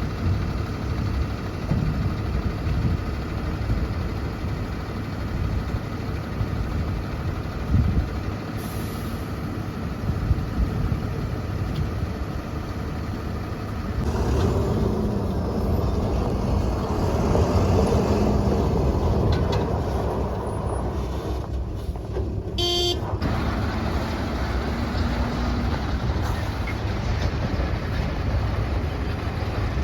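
Heavy diesel dump truck engine running steadily, growing louder about halfway through.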